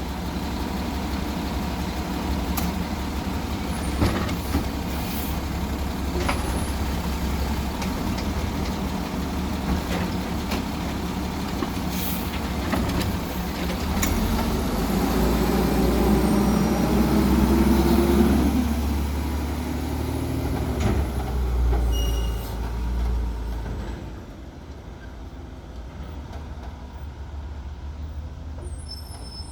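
Peterbilt 320 side-loader garbage truck with a Labrie Expert 2000 body, its diesel engine running steadily. The engine builds louder for several seconds about halfway through, then eases off, with a few sharp knocks along the way.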